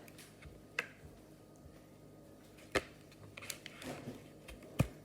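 A few sharp taps and clicks of objects being handled, about a second apart and a little more frequent near the end, over quiet room tone.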